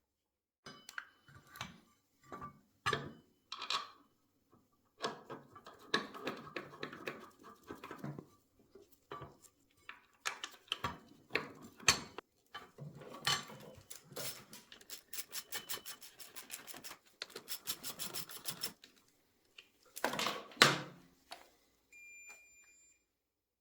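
Clicks, knocks and rattles of tools and metal parts being handled, with a fast, even run of clicks through the middle and a short beep near the end.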